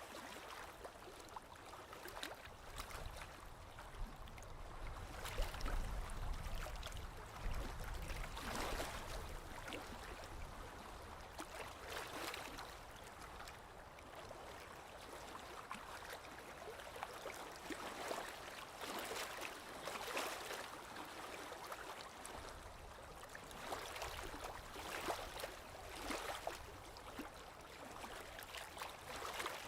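Small lake waves lapping against the shore: soft, irregular splashes every second or two over a steady watery hiss.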